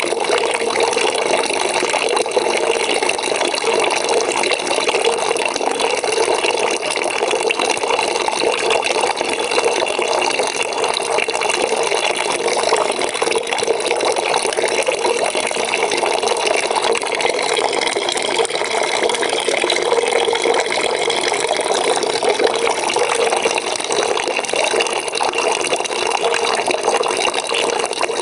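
Water pouring steadily into a bucket as it fills, a constant even splashing rush.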